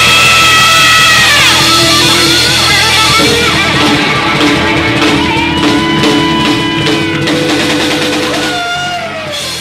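Live hard rock band playing: distorted electric guitar holding notes and sliding down in pitch over drums and cymbals. The volume tapers off near the end.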